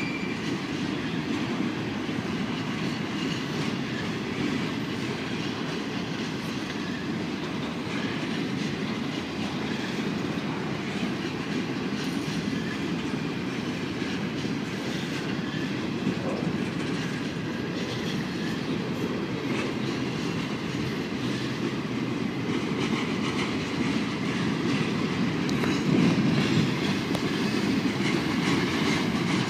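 Freight train boxcars rolling past at steady speed: a steady rumble of steel wheels on the rails and rail joints, growing a little louder near the end.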